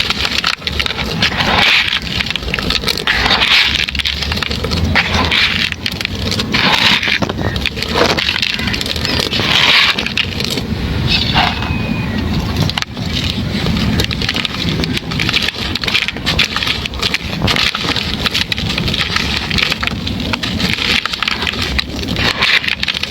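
Dry white 'stoney' chunks being crumbled and crushed by hand: continuous crunching and crackling with repeated louder bursts as pieces break apart.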